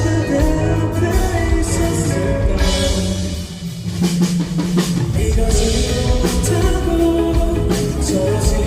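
Live pop-rock band playing, drums and guitar under a singer's voice, with a short drop in the music about three and a half seconds in before the full band comes back.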